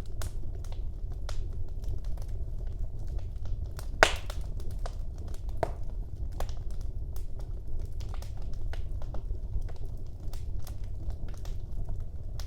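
Wood fire in a fireplace crackling: irregular small pops and snaps throughout, with one loud pop about four seconds in, over a low steady rumble.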